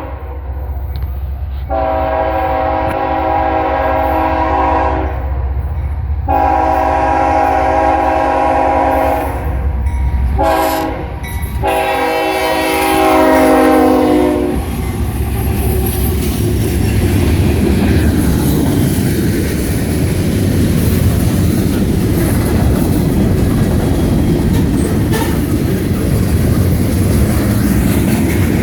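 CSX freight locomotive's multi-tone air horn sounding the grade-crossing signal: two long blasts, a short one, then a long one whose pitch drops as the locomotive passes. The train then rolls by with a steady rumble and clatter of wheels on rail joints.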